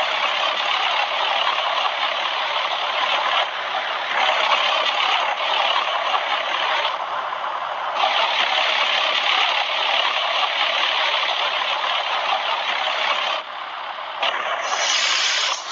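2011 Bryant 213BNA036 heat pump outdoor unit running through its defrost cycle, a loud steady hissing rush. It drops off about 13 seconds in and comes back as a brief brighter hiss near the end.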